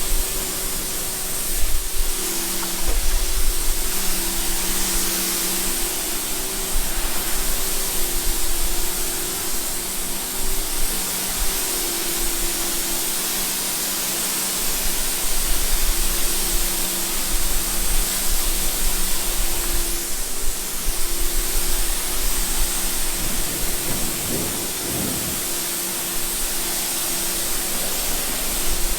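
Water spraying with a steady hiss, alongside a low steady hum that breaks off and returns every few seconds.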